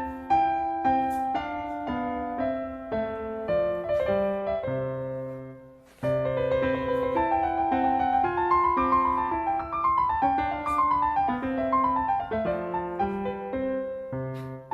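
Background piano music playing a light melody. It dies away about six seconds in and starts again at once.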